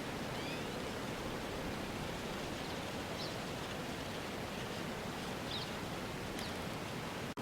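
Steady outdoor ambience: an even rushing noise with a few faint, short, high chirps scattered through it. It drops out for an instant near the end.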